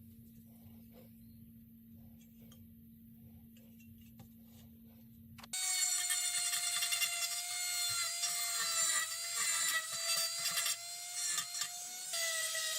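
A faint low hum, then about five and a half seconds in a small electric power tool starts abruptly. It runs with a steady high whine over a scraping hiss, its pitch dipping slightly now and then as it bears on the work.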